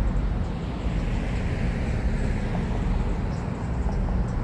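Steady low mechanical rumble with a haze of outdoor noise, like a running fan or engine, holding level throughout.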